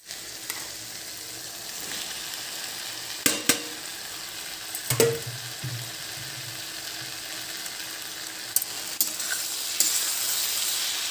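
Onion-tomato masala sizzling steadily in a steel kadhai as shallow-fried okra is added and stirred in with a steel spatula. The spatula clinks against the pan a few times, twice about three seconds in and again near five seconds.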